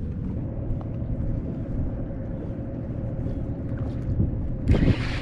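Steady low rumble with a faint steady hum under it, and a short loud rush of noise near the end.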